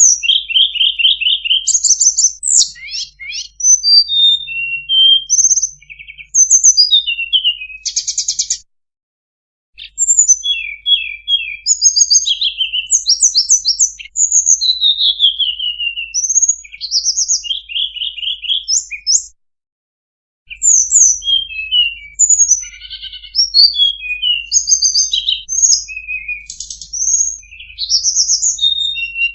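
Tledekan song played as a bird-trapping lure: a fast, varied run of high whistles, sliding notes and rapid trills, stopping dead for about a second twice.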